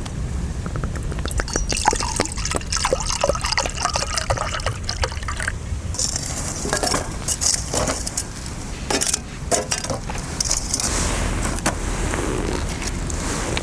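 Liquid being poured and sloshing, with repeated clinks and taps of cookware, over a steady low rumble.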